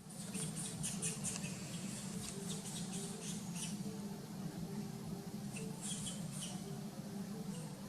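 Short, high-pitched sounds from a monkey, in a quick run over the first few seconds and again a little after halfway, over a steady low hum.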